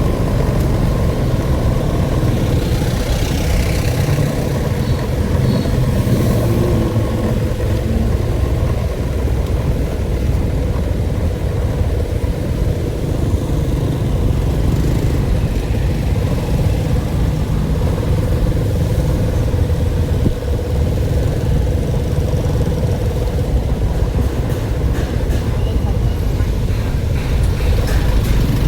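Steady low rumble of a running vehicle, with a thin steady hum over it.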